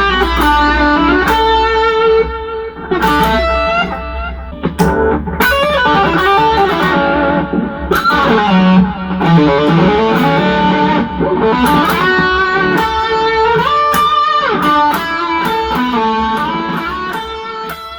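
Electric guitar played through an MXR Super Badass Distortion pedal: fast distorted lead lines of changing notes, fading away near the end.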